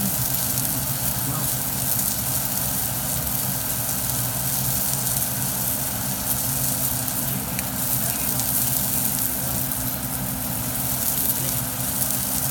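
Salmon sizzling in a frying pan: a steady hiss over a steady low hum.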